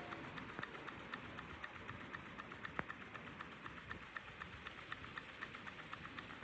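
Small model steam engine running on its first run, with a faint, quick, even ticking from its strokes and one sharper click about three seconds in.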